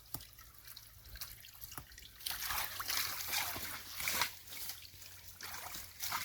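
Water from a small spring trickling and splashing while hands clear debris out of the spring's outlet. It grows busier and louder about two seconds in.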